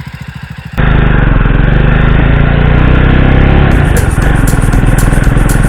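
Motorcycle engine running with an even pulsing beat. Less than a second in, it switches abruptly to a much louder, steady engine-and-wind sound while riding.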